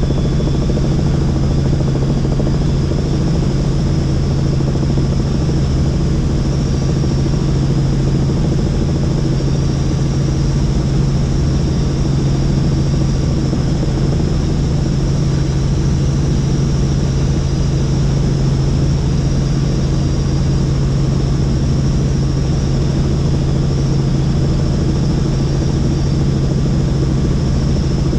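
Helicopter in flight: a steady, loud engine and rotor drone with a high whine above it, unchanging throughout.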